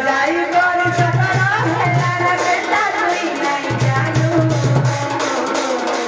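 Sambalpuri folk-song music: a wavering melodic lead over a steady hand-drum beat and a low bass line, which drops out briefly midway.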